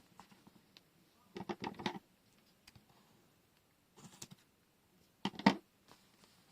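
Washi tape rolls and paper being handled on a desk: three short bursts of clicks and rustles, the last, about five seconds in, the loudest.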